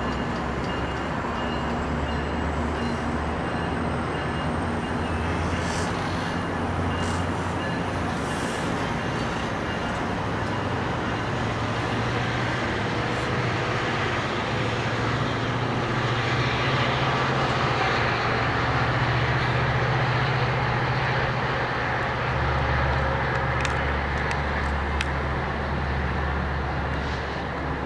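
MARC commuter train with bilevel coaches pulling out of the station: a steady diesel engine drone with rail rumble, a little louder in the middle, and a few sharp clicks near the end.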